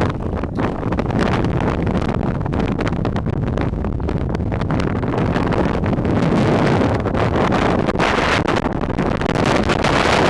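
Loud blizzard wind blowing across the open frozen lake and buffeting the microphone in a dense, steady rush with slight swells.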